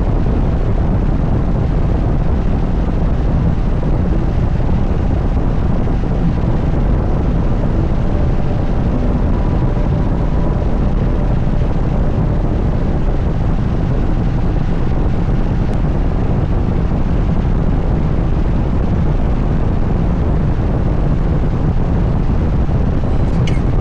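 Indian motorcycle's V-twin engine running steadily while riding, a continuous low rumble mixed with wind buffeting the microphone.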